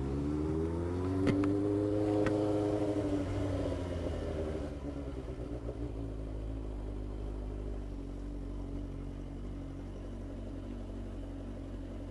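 Motorcycle engine pulling up in pitch for about two seconds, then easing off and settling to a steady idle.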